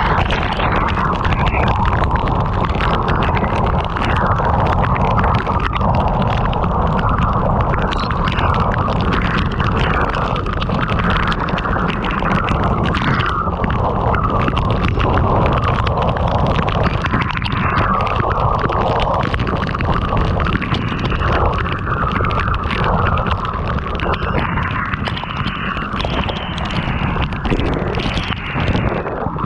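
Heavy rain pelting a moving car, with a loud low rumble of wind on the microphone.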